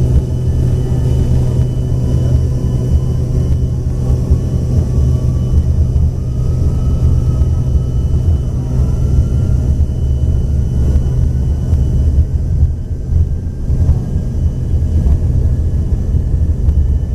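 Cabin noise of an Embraer ERJ-145XR with its rear-mounted Rolls-Royce AE3007 turbofans running: a steady low rumble and hum, with a faint whine slowly rising in pitch.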